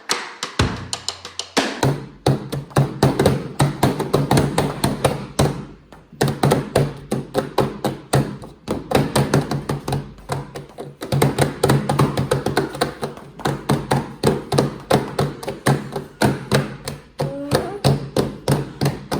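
Rapid rhythmic tapping in quick, repeated runs of strokes, the 'tta-tta-tta-tta' sound, with a steady low tone beneath it.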